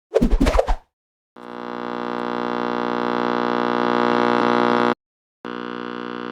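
A brief warbling sound effect, then a steady electric-sounding hum that slowly swells for about three and a half seconds and cuts off abruptly. After a short gap comes a second, quieter hum with a slight pulse.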